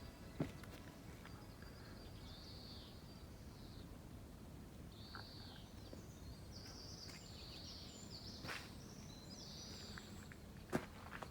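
Wild birds calling in woodland: short, high, arching chirps repeated every second or two. A few sharp clicks sound over them, the loudest near the end, with a steady low background noise throughout.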